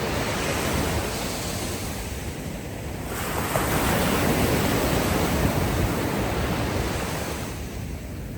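Ocean waves washing up on a beach. One wave swells about three seconds in and fades near the end, with wind in the background.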